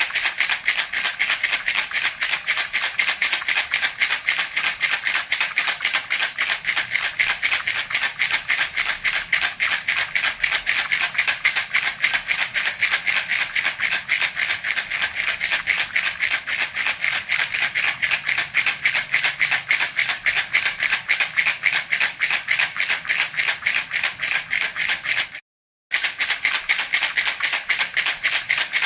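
Baby rattle (jhunjhuna) shaken continuously in a quick, even rhythm, its beads rattling. It drops out completely for a moment near the end, then carries on.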